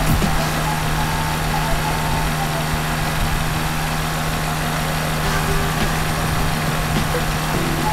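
Air-cooled two-stroke Rotax 503 engine of an ultralight trike running steadily at cruise power in flight, a constant low drone with rushing air noise over it.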